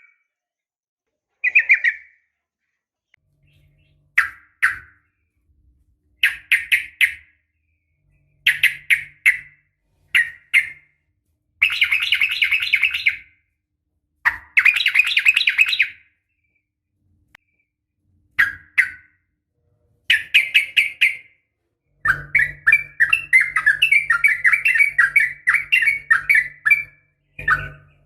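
Female sooty-headed bulbul calling to males in short bursts of quick chattering notes, with a couple of denser bursts near the middle and a long rapid run in the last few seconds.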